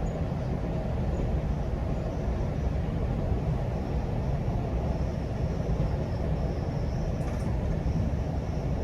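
Steady low rumble of a GO Transit commuter train running at speed, heard from on board: wheels rolling on the track with no let-up. A faint high-pitched whine comes and goes in the second half.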